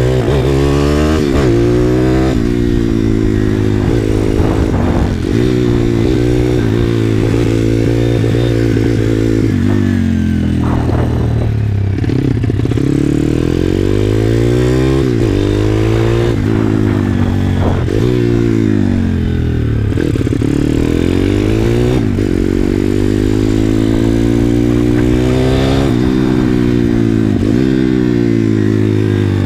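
Pit bike's small single-cylinder engine being ridden hard on a track. Its note climbs under acceleration, then drops off, again and again through the gears and corners.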